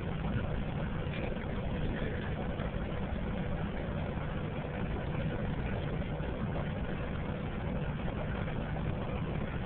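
Steady low rumble of a car's engine and cabin noise, heard from inside the car, with a faint steady hum above it.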